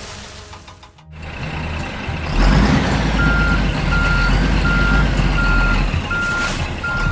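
Truck engine rumbling. From about three seconds in, a reversing alarm beeps at a steady pace, about six beeps over it.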